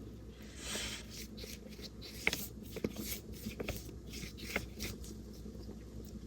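Paintbrush working acrylic paint, with soft scratchy strokes and a few light taps.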